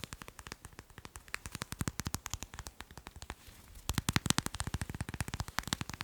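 Fast, light tapping on macarons, many taps a second, growing louder for a stretch about four seconds in.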